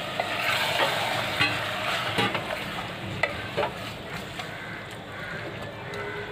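Chicken pieces frying in spiced masala in a metal pot, a steady sizzle, while a flat spatula stirs them, scraping and knocking against the pot several times in the first few seconds. This is the bhuna stage, where the chicken is sautéed in its masala.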